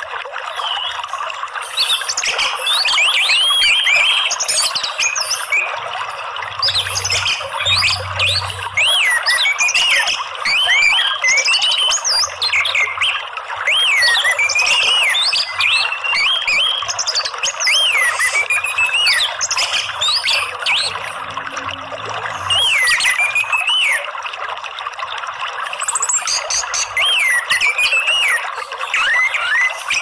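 Orange-headed thrush singing a string of quick, sweeping whistled notes over the steady rush of running water.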